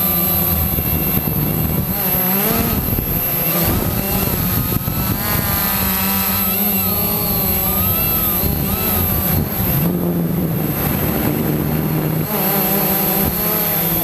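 Quanum Nova quadcopter's brushless motors and propellers whining in flight, the pitch rising and falling repeatedly as the throttle changes.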